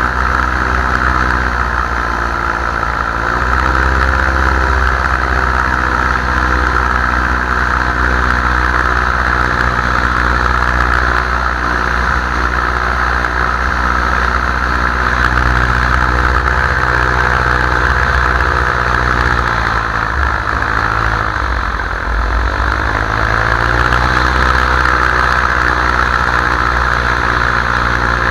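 Paramotor engine and propeller running in flight. The engine speeds up about three seconds in, then is throttled back around twenty seconds in and opened up again a couple of seconds later.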